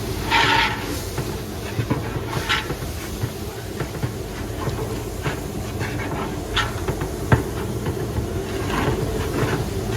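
Bulk cooking in a large commercial pot over a gas burner: a steady low rumble, with scattered scrapes and clinks of a ladle or stirring paddle against the pot.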